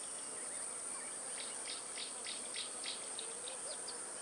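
Insects chirping in a natural ambience: a steady high-pitched drone under a run of quick, evenly spaced chirps, about six or seven a second, through the middle.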